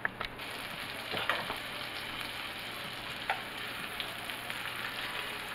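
Floured chicken breasts frying in melted butter: a steady sizzle, with a few sharp clicks and clinks as a fork moves the pieces in the pan.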